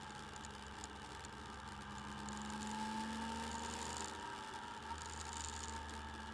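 Motorcycle engine running steadily while riding, picked up by a bike-mounted camera's microphone, swelling a little about halfway through.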